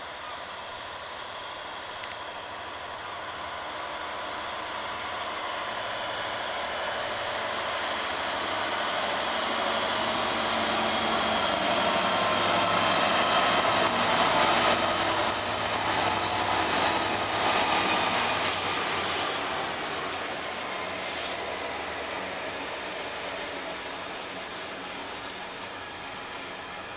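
Freightliner Class 66 diesel locomotive's two-stroke V12 engine working as it pulls an engineers' train past, growing louder as it nears and passes. The flat wagons then roll by with sharp clicks over rail joints and a thin high squeal from the wheels that falls slowly in pitch.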